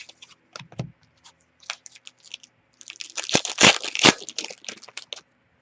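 Foil trading-card pack wrapper being torn open and crinkled, with the cards handled. There are scattered crackles at first, then a denser, louder run of tearing and crinkling from about three seconds in.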